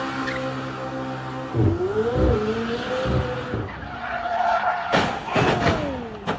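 Car tyres squealing in a skid, the pitch wavering, then a few sharp impacts about five seconds in, as of a collision.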